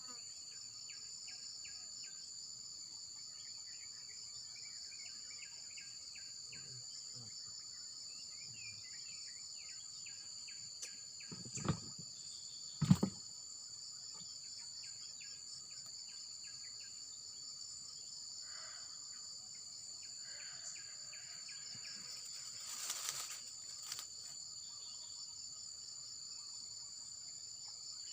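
Steady high-pitched drone of a crickets-and-insects chorus, with scattered chirps over it. About halfway through come two sharp knocks a little over a second apart, and a brief rustling burst follows a few seconds before the end.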